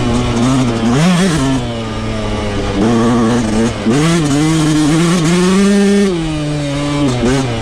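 Yamaha YZ125 two-stroke single-cylinder dirt bike engine at riding speed, stock exhaust, its pitch rising and falling with the throttle. It gives quick blips about a second in and near the end, backs off briefly a little before halfway, then pulls up and holds a higher pitch before dropping again.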